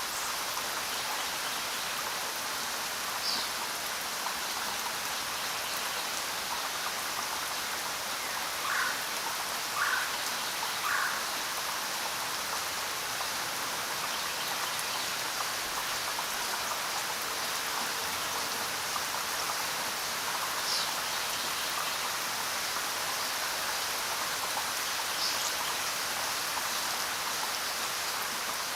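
Steady rain falling, an even hiss of drops. A few short, sharper sounds stand out from it, three of them about a second apart near the middle.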